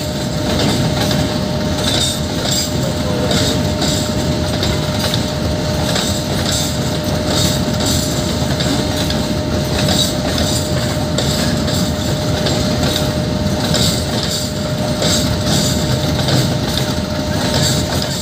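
Freight train wagons rolling slowly along the adjacent track, wheels clacking over the rail joints again and again over a steady rumble and a steady hum.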